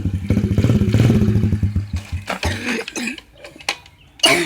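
Dirt bike engine running with an even pulsing beat, then dying away about two seconds in, followed by a few knocks and one short loud sound near the end.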